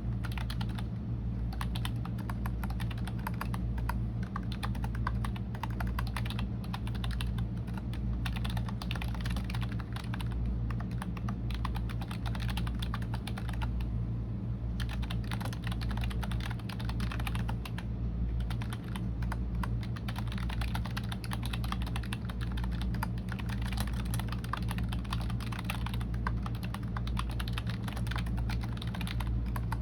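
Computer keyboard typing in quick, continuous runs of keystrokes, with a brief lull about halfway through, over a steady low hum.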